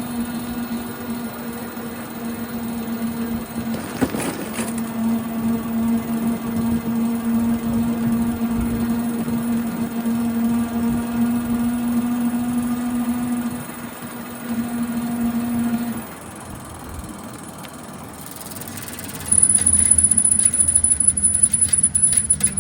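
A bicycle being ridden, making the annoying noise of a fault that needs fixing: a steady hum that breaks off briefly about four seconds in and dies away after about sixteen seconds. Near the end a loud high-pitched squeal with fast ticking takes over.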